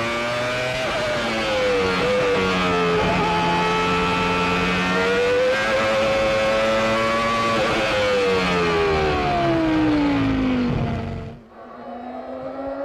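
A 1995 Formula One car's engine at high revs, its pitch climbing and dipping as it runs through the gears. About eight seconds in the pitch falls steadily for around three seconds. Near the end the sound drops sharply to a quieter engine note rising in pitch.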